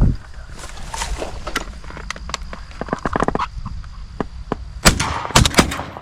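Shotgun shots at doves: a loud shot about five seconds in, followed half a second later by another sharp report, after a few seconds of faint clicks and handling noise.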